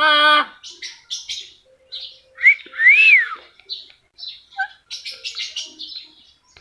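A talking pet bird calling: a pitched call that ends about half a second in, then short chirps and clicks, with one clear whistle rising and falling about three seconds in.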